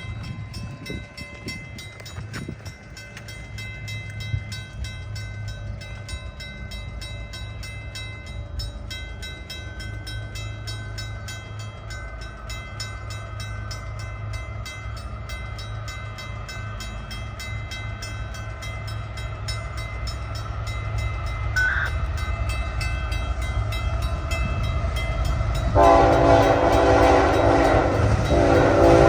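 An approaching diesel freight train rumbles louder and louder. Near the end its lead locomotive sounds a Nathan K5HL five-chime horn in two blasts.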